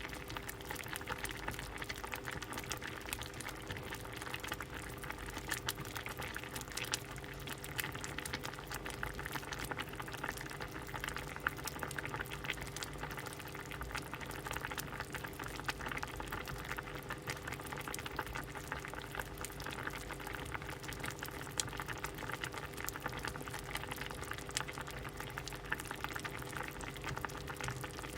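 A pot of soup boiling steadily: a continuous dense bubbling and popping with no change in intensity.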